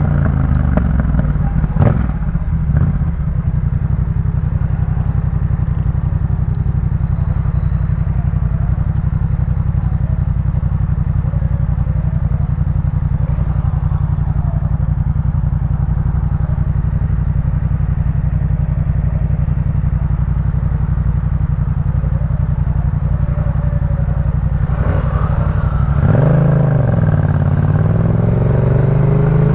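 Yamaha MT-07's 689 cc parallel-twin engine through a Jeskap K4 full aftermarket exhaust, running at a steady, even engine speed after the revs fall away in the first few seconds. Near the end the revs dip and then climb again as the bike pulls harder.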